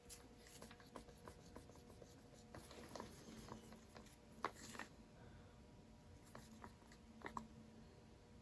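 Near silence: faint small taps and scrapes of paint cups and tools being handled, over a faint steady hum.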